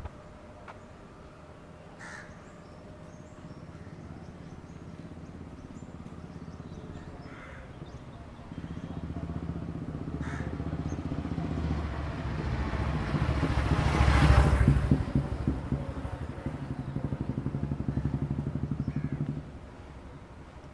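A vehicle engine comes up about eight seconds in, swells as it passes close by, loudest about two-thirds through, then runs on steadily and cuts off suddenly near the end. A crow caws a few times in the first half.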